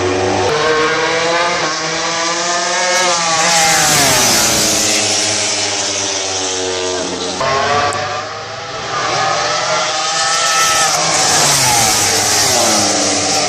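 Racing motorcycles passing at speed on a race track, their engines rising in pitch as they approach and dropping sharply as they go by, twice, with a haze of wind and tyre noise.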